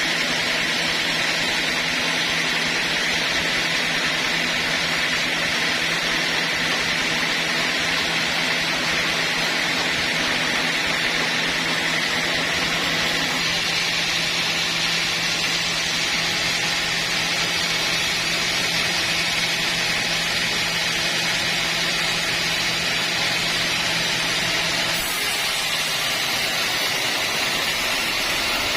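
Sawmill machinery running steadily: a loud, even mechanical noise with an engine hum underneath, which shifts slightly about halfway through and again near the end.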